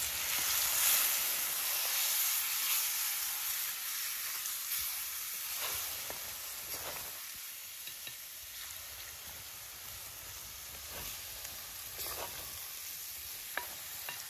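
Prawn masala sizzling in a hot pan as a small glass of water goes in, loudest in the first couple of seconds and settling gradually, with a few light clicks of stirring.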